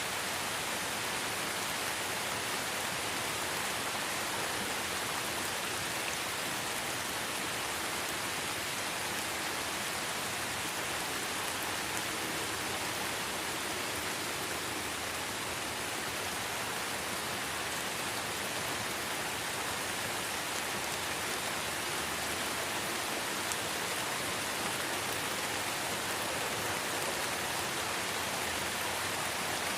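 Light rain falling steadily in a forest: an even, unbroken hiss of rainfall with faint scattered drop ticks.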